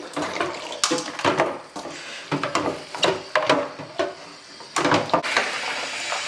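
Hard plastic fridge parts (shelves and door bins) being handled, knocking and clattering against each other and the sink in a quick irregular run of short knocks.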